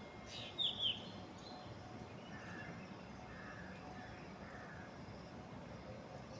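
Birds chirping in the early morning: one bird gives a short, loud call of two quick falling notes about half a second in, and fainter calls from other birds follow over a steady quiet background.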